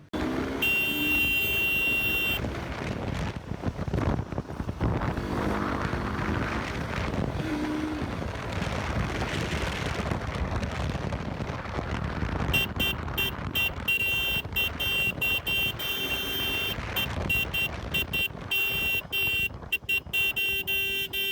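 Motorcycle riding in slow traffic: engine and road noise with wind on the microphone. A high-pitched tone with overtones comes on briefly near the start and again, chopped on and off, through the last third.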